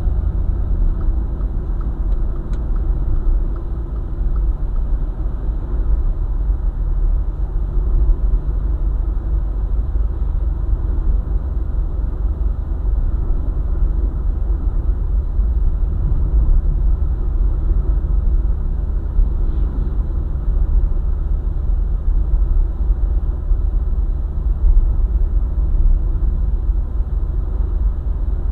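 Steady low rumble of a vehicle driving along a highway: road and tyre noise with the engine running at a constant cruise.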